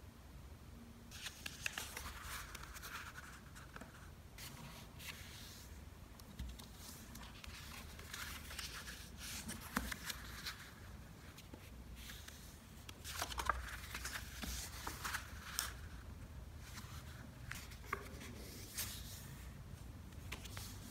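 A sheet of origami paper being folded and creased by hand, in irregular soft rustles broken by short crisp crackles.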